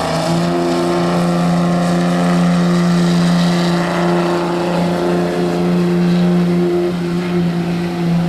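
Pulling truck's engine held at steady high revs under load. The pitch barely changes, with a brief dip about seven seconds in and another near the end.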